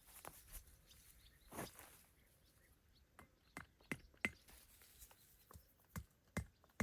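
Faint, scattered small clicks and knocks, a few a second in the second half, with a soft rustle about a second and a half in.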